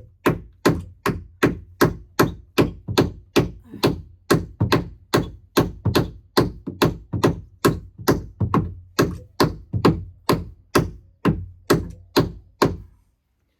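Hammer driving a nail into a wooden roost perch: steady, evenly spaced blows about two and a half a second, stopping shortly before the end.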